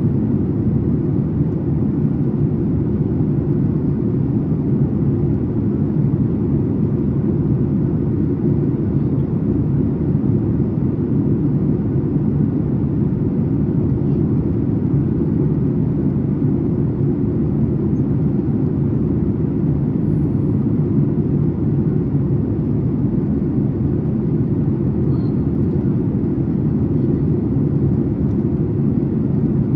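Steady low drone inside the cabin of a Boeing 737 MAX 8 in flight: its CFM LEAP-1B engines and the air rushing over the fuselage, heard from a window seat.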